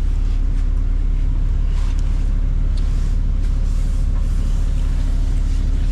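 A motor vehicle's engine running steadily, a deep, even rumble with a constant low hum.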